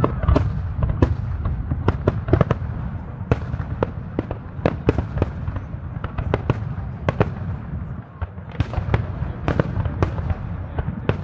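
Aerial fireworks display: many sharp bangs and crackles of bursting shells at an irregular, rapid pace, over a continuous low rumble.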